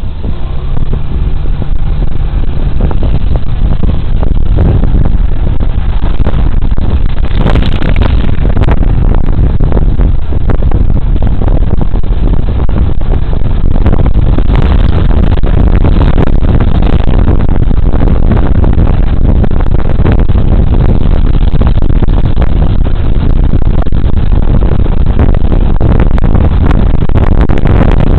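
Loud, steady wind rush on a body camera's microphone while riding a Suzuki Burgman Street 125 scooter, mixed with the scooter's single-cylinder engine and road noise. It builds up over the first second and then holds.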